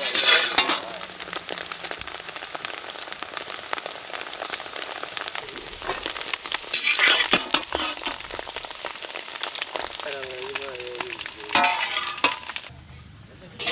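Finely chopped coconut sizzling and crackling in hot ghee in an iron wok, with a few louder scrapes of a metal spatula as the pieces are stirred and scooped out. The sizzling stops about a second before the end.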